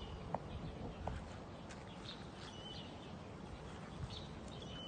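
Outdoor ambience: a bird gives a short high chirp every couple of seconds over steady background noise, with a couple of faint clicks early on.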